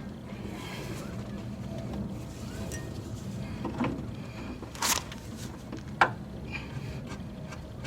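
Metal clinking of a wrench and strut-mount hardware as the top strut nut is undone: three sharp clinks about a second apart in the second half, over a low steady hum.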